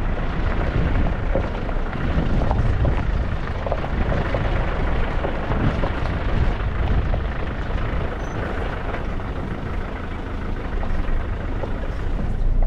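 Isuzu Trooper 4x4 driving along a gravel track: the engine running steadily under a constant noise of tyres on loose stone, with scattered small ticks and knocks from gravel and bumps.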